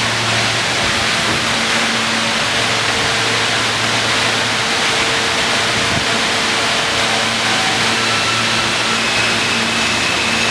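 R160 subway train running through the station with a loud, steady rumble and hum. Near the end a high whine steps up in pitch.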